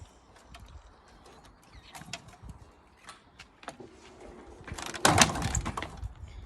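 KTM dirt bike being kicked over: scattered clicks and knocks, then one loud mechanical clatter about five seconds in. The engine does not catch and run.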